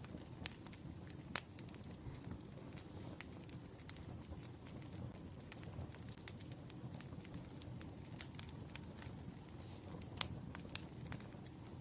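Firewood burning: a low steady rumble with irregular sharp pops and crackles, a few louder pops among them, the loudest about ten seconds in.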